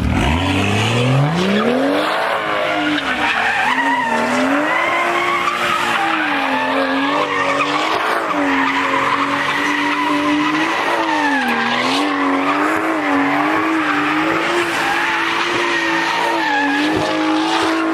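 BMW M3 doing donuts: the engine revs up sharply in the first couple of seconds, then is held high with its pitch rising and dipping, while the rear tyres squeal and skid.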